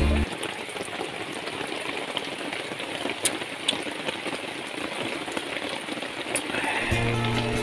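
Steady water noise, an even hiss with a few faint ticks, after the background music cuts out about a quarter second in; the music returns near the end.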